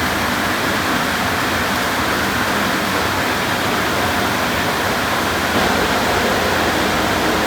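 Car wash tunnel equipment running: a loud, steady rush of water spray and machinery with no pauses.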